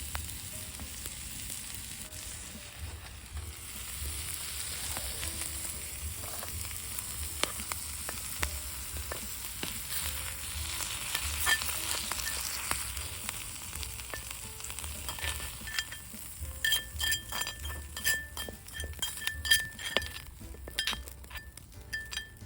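Meat sizzling steadily on a thick steel griddle. In the second half come a run of sharp clicks and light taps.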